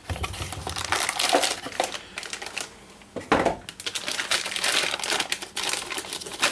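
Plastic packaging crinkling and crackling as it is handled and pulled off, with scattered sharp clicks and a short pause about halfway through.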